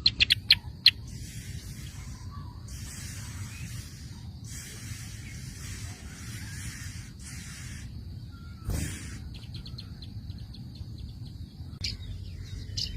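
Several sharp, high bird chirps in the first second, then a run of hissing bursts, each about a second long. A single louder noise comes about 9 s in, followed by faint rapid ticking and a few more chirps near the end, over a steady low rumble.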